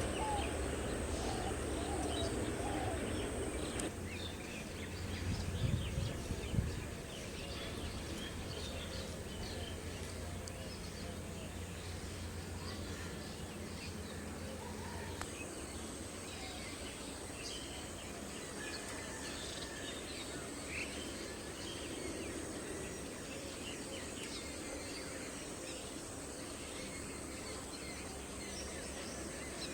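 Many small birds chirping and calling in scattered short notes over a steady outdoor background rumble, with a few low thumps about six seconds in.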